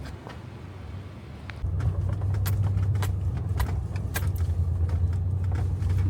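Road rumble inside a moving pickup truck, stepping up and getting louder about one and a half seconds in, with light clicks and rattles scattered through it.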